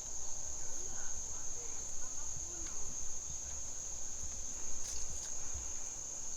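Steady high-pitched drone of insects, crickets or cicadas, shrilling on one even pitch without a break.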